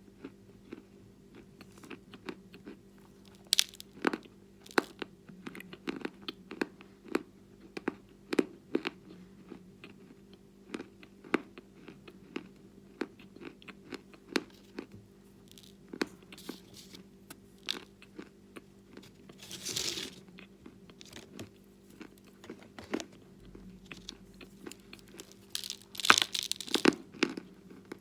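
Natural chalk being bitten and chewed close up: a long run of short, dry crunches and crackles, with longer bouts of crunching about twenty seconds in and again near the end. A faint steady hum runs underneath.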